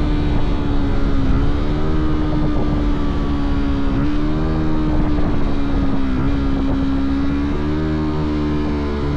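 Fantic Caballero 125's single-cylinder four-stroke engine and exhaust running under way at a fairly steady speed. Its pitch dips briefly a few times as the throttle is eased, then climbs a little near the end.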